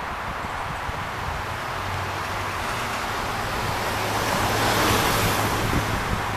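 Jet airliner engines, a rushing noise that swells to its loudest about five seconds in and eases off, with a low steady hum under it, mixed with wind on the microphone.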